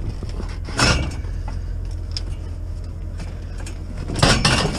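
Heavy scrap metal pieces being handled, with short clattering knocks and scrapes about a second in and again near the end, over a steady low rumble.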